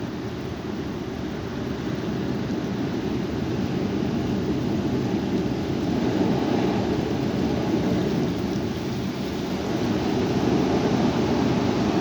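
Strong wind gusting and rumbling across the microphone, a steady roar that swells about halfway through and again near the end.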